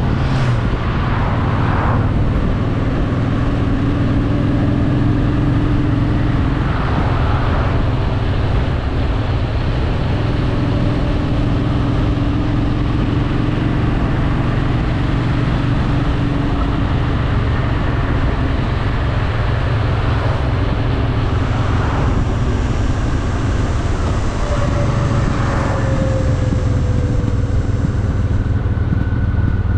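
Honda Shadow VT750's V-twin engine running at a steady cruise under a broad rush of wind and road noise, its note shifting only slightly.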